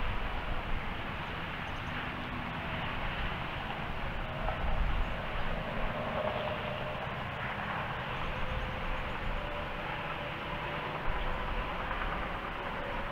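Distant train rumbling steadily, with a few faint drawn-out tones over the rumble.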